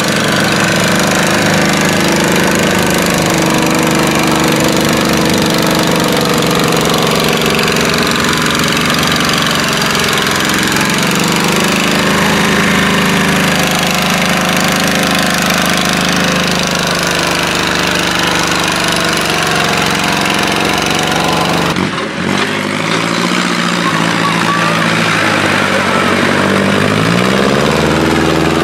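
Tractor engine running under load, its pitch drifting up and down. About 22 seconds in the sound breaks off briefly and an engine comes back at a different pitch, rising near the end.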